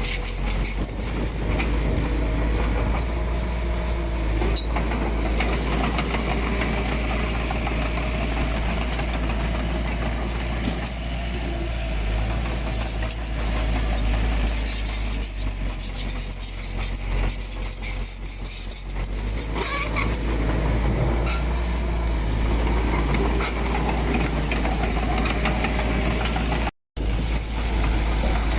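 Heavy earthmoving machine's diesel engine running steadily, with scattered clanks and rattles over the engine noise; the sound drops out for a split second near the end.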